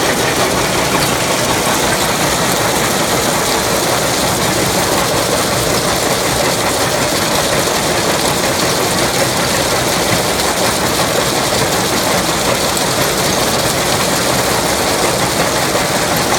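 Super Cone Crusher SP400 running in an aggregate crushing plant: a loud, steady mechanical din of rock being crushed, unchanging throughout.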